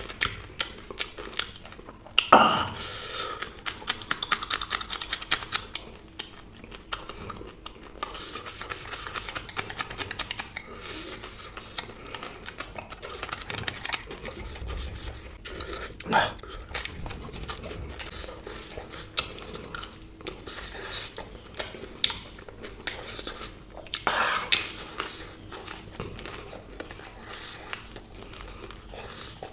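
Close-miked eating: crisp food being bitten and chewed, with a dense run of small crunching clicks. Louder bites come about two seconds in, around the middle and about three-quarters of the way through.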